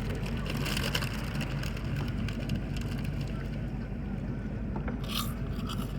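A boat motor running steadily on the water, with irregular splashing and crackle over it.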